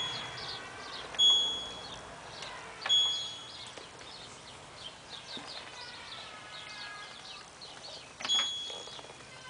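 Control panel of an LG F1222TD washing machine beeping as its buttons are pressed to change the wash settings: three short, high beeps, about a second, three seconds and eight seconds in.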